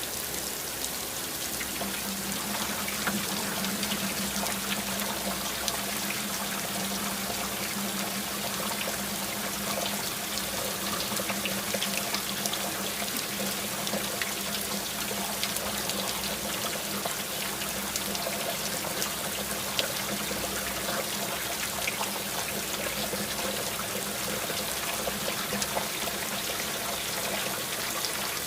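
Steady rain falling, with many small drops ticking and water trickling and running. A low steady hum comes in about two seconds in and continues under it.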